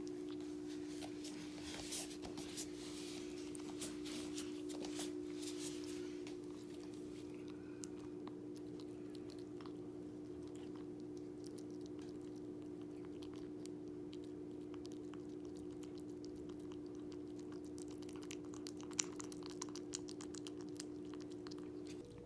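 Orange tabby kitten eating, with small wet chewing and crunching clicks that come in bursts. A steady low hum sits underneath.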